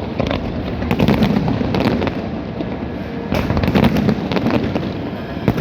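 A New Year fireworks display bursting in rapid volleys: sharp bangs in clusters over a continuous low rumble of overlapping explosions.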